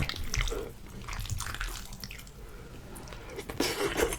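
Wet chewing and mouth sounds of someone eating saucy, cheesy chicken pasta: a run of small sticky smacks and clicks, busier near the end.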